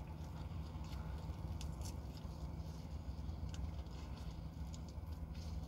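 Biting into and chewing fried chicken: a few faint, crisp clicks over a steady low hum from the vehicle cab.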